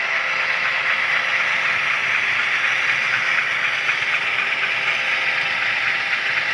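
HO-scale model train running along the track, a steady rolling noise of metal wheels on rail with a faint motor hum, heard from on board the camera car.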